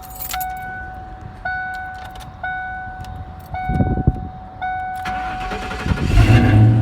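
Ford Mustang GT V8 cranking and firing up on its new spark plugs, catching quickly in the last couple of seconds. Before it, the car's warning chime dings about once a second with the key on.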